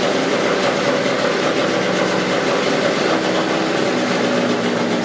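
Fiat 127's four-cylinder petrol engine running steadily on its first start-up, its speed dropping slightly about four seconds in.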